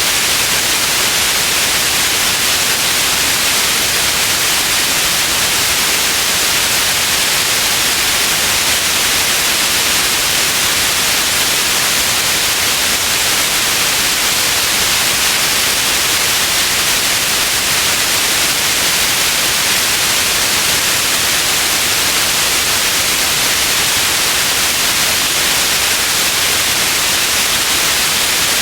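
Steady, unchanging electronic white noise, a constant bright hiss.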